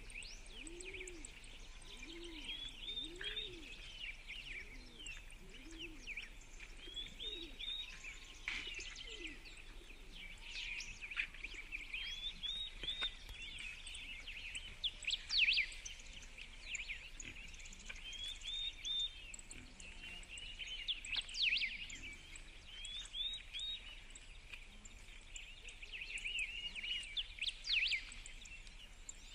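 Birds chirping and singing outdoors, a steady run of short repeated phrases, with fainter low calls through roughly the first ten seconds.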